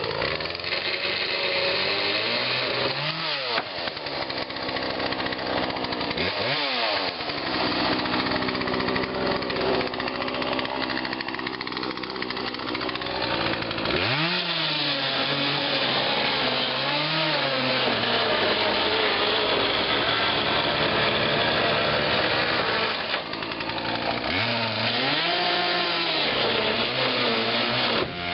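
Two-stroke chainsaw cutting through a fiberglass boat hull, running hard with the revs dropping and climbing again several times as the throttle eases and the chain bites.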